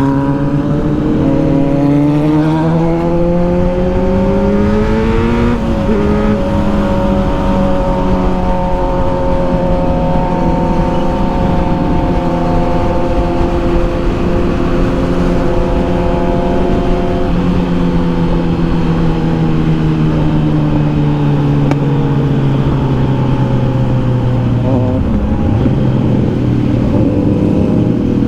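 Kawasaki Z900's inline-four engine under way: it revs up for about five seconds, drops suddenly at a gear change, then holds a steady cruise that slowly falls in pitch. Near the end the revs dip briefly and climb again.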